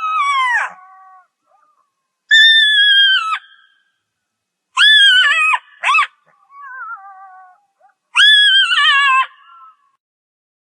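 A jackal giving a run of high, wailing howls. There are four loud calls of about a second each, each falling away at its end, with quieter wavering calls between them.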